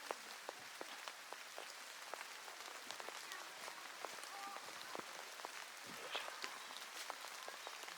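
Rain falling steadily: an even hiss with many irregular individual drop ticks.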